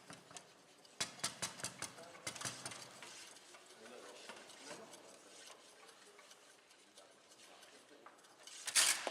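Foosball play on a Bonzini table: sharp clacks of the ball striking the player figures and table walls, a quick run of them about a second in and a louder burst of hits near the end.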